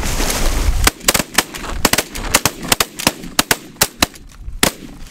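A rapid volley of shotgun blasts from several hunters firing at once on a flock of snow geese: over a dozen sharp shots, overlapping and irregular, packed into about four seconds, starting about a second in. Wind rumble on the microphone comes before the first shot.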